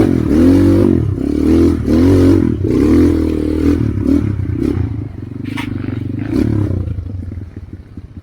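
Trail motorcycle engine revved in repeated surges of throttle, about one a second, rising and falling in pitch, dropping away to a lower, quieter running near the end. A few sharp clatters are mixed in.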